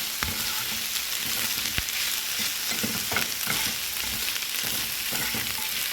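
Cut-up grilled chicken strips sizzling steadily as they saute in a skillet, with occasional short clicks over the hiss.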